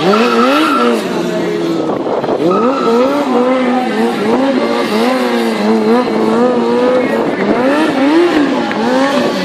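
Sportbike engine revving hard, its pitch rising and falling again and again as the stunt rider works the throttle.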